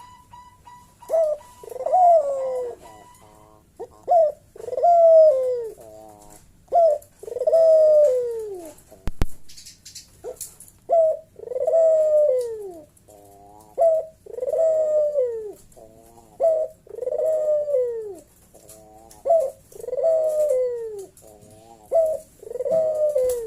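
Local puter dove (ringneck dove) giving its loud 'bekur' cooing call over and over, each phrase a short note followed by a long falling coo, about every two and a half seconds. A single sharp click about nine seconds in.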